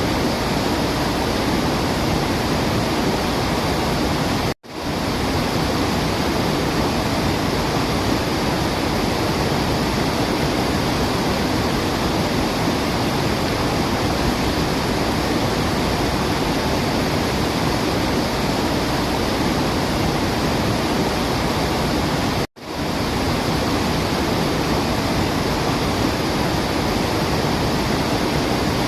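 Steady rushing water, a waterfall's even roar-like hiss with no birdsong standing out. It cuts out to silence for a split second twice, about five seconds in and near the end, as at the seams of a looped recording.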